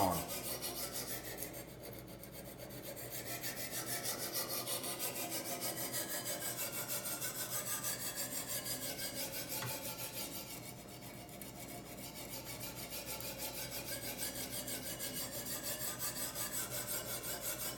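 Coarse diamond sharpening stone on a guided-rod knife sharpener rasping back and forth along the edge of a large kitchen knife to raise a burr. The strokes are quick and even, about four a second, and they ease off briefly twice.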